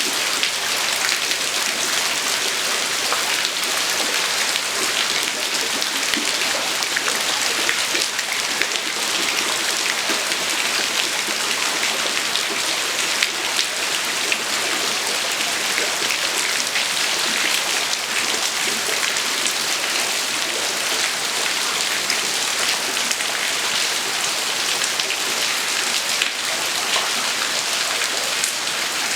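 Heavy typhoon rain falling steadily, a dense hiss of drops striking the ground and surfaces.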